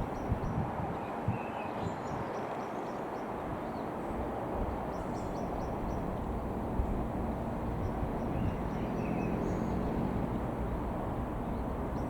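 Steady outdoor background rumble with a few short bird chirps, around two seconds in and again near the ninth second.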